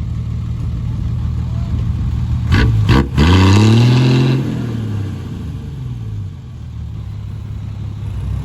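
Dump truck's diesel engine running steadily, then revved hard about three seconds in, just after a couple of sharp knocks, and falling back to idle within about two seconds. The truck is stuck in mud up to its wheels, trying to pull out and only sinking deeper.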